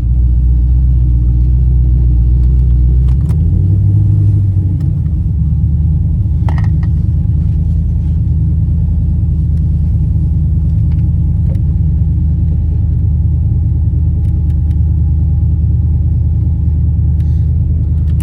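Camaro's LS1 V8 idling with a steady, deep low rumble, heard from inside the car; the idle shifts slightly a few seconds in.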